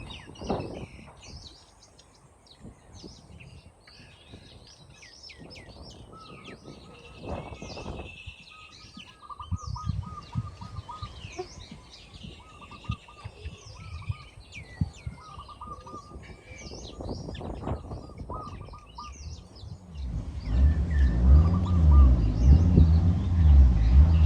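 Small birds chirping and calling, with scattered low crackles and knocks underneath. About twenty seconds in, a much louder, deep engine-like sound with a wavering pitch takes over.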